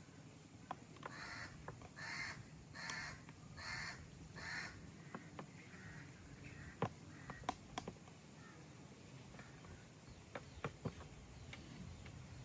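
A bird calling five times in a row, about one call every three-quarters of a second, followed by a few scattered sharp clicks.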